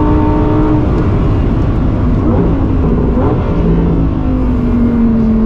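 Lamborghini Huracán Tecnica's naturally aspirated V10 running at speed: its tone drops about a second in, then slides slowly lower as the car slows after a hard run.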